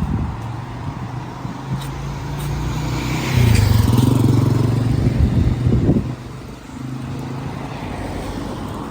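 A road vehicle's engine running close by, swelling about three seconds in with tyre hiss as it passes, and easing off around six seconds.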